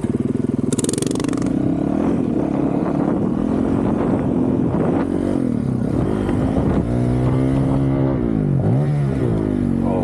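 2023 Honda CRF450RL's single-cylinder four-stroke engine running through a full titanium Yoshimura RS-4 exhaust, holding fairly steady revs. From about seven seconds in, the pitch drops and climbs again in quick swings as the throttle is rolled off and back on.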